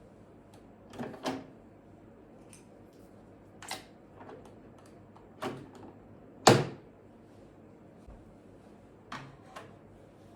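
Kitchen handling sounds: a series of separate knocks and clunks, a pair about a second in, single ones near four and five and a half seconds, the loudest about six and a half seconds in, and two light ones near the end.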